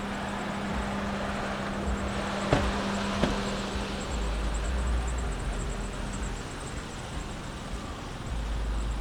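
Outdoor traffic noise with a vehicle running: a steady hum fades out about halfway, and two sharp clicks come a little before that.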